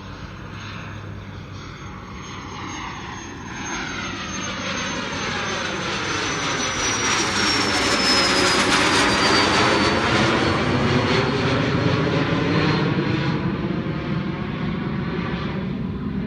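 Jet aircraft climbing out after takeoff and passing by: the engine noise builds to a peak about halfway through and then eases, with a high engine whine that falls in pitch as it passes. The uploader guesses it is a reduced-power takeoff for noise abatement.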